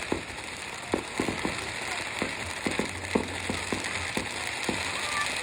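Fireworks finale: a rapid, irregular string of pops and bangs from shells bursting, over a steady hiss.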